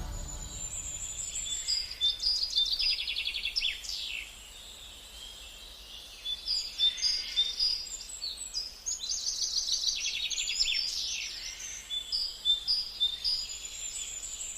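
Songbirds singing: a mix of short chirps, rapid trills and downward-sliding whistles, with a lull a few seconds in, over a faint steady hiss.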